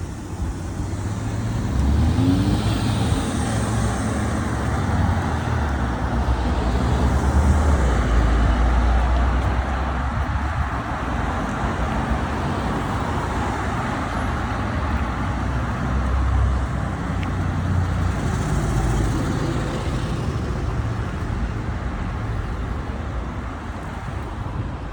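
Road traffic noise: cars passing with a steady low rumble that swells twice.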